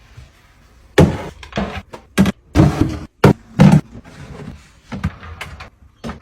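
A quick run of clunks and clatters from items being handled and set down, about half a dozen knocks bunched between one and four seconds in, with quieter rustling and handling around them.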